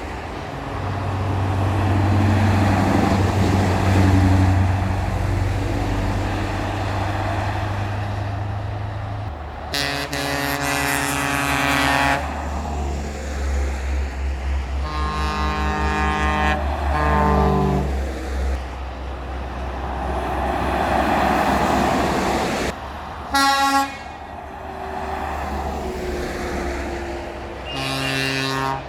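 Heavy trucks passing in a convoy, their engines rumbling steadily, with air horns sounding: a long blast about ten seconds in, a run of shorter blasts a few seconds later, then a quick toot and a final short blast near the end.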